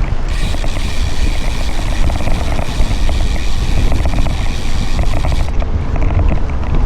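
Wind buffeting the microphone of a moving bicycle, a heavy low rumble throughout. A brighter hiss joins just after the start and cuts off about five and a half seconds in.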